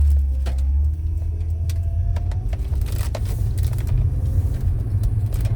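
Steady low rumble of a car on the road, heard from inside the cabin, with scattered light clicks.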